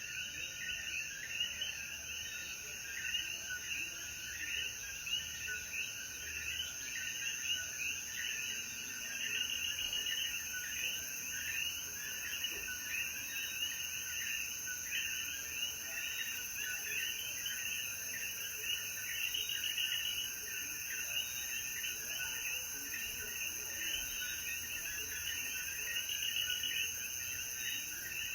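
A dense chorus of common coquí frogs, many overlapping short calls that each rise in pitch, over a steady high hiss.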